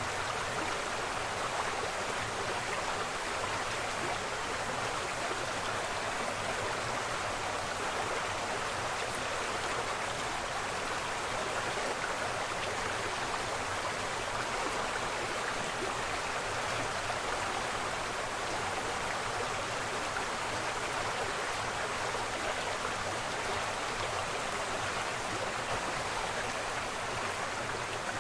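Waterfall: water falling and rushing in a steady, even roar of white water.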